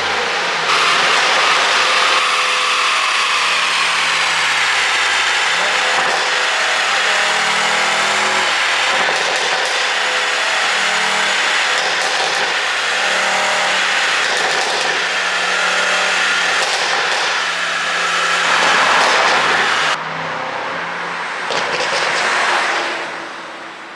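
Mercedes-AMG S63's twin-turbo 4.0-litre V8 running through an ECU-tuned exhaust, its pitch rising and falling as it revs. The level drops suddenly about twenty seconds in and fades near the end.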